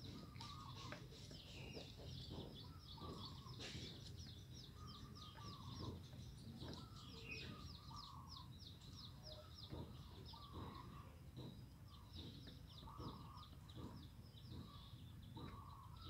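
Faint birds calling: a fast, high chirping that repeats throughout, with short lower calls now and then.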